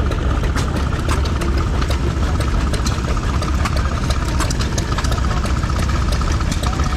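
Vintage stationary engine running steadily, a deep low throb with many sharp mechanical ticks over it.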